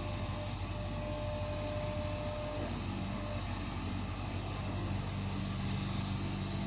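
A motor engine running steadily with a low hum, with a faint thin whine in the first few seconds.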